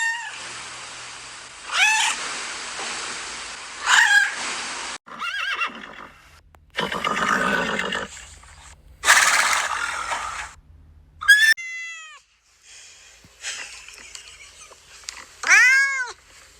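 Animal calls in a run of short clips cut together: three short pitched calls about two seconds apart over a steady hiss, then louder, noisier passages, and arching calls near the end.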